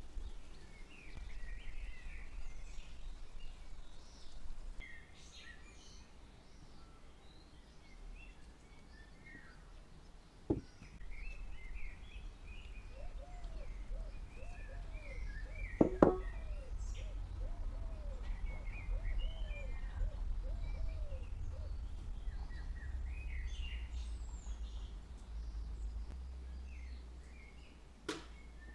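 Small birds chirping and twittering again and again over a steady low rumble. About halfway through, a lower call repeats in a run of rising-and-falling notes, about two a second. A sharp knock sounds in the middle of that run.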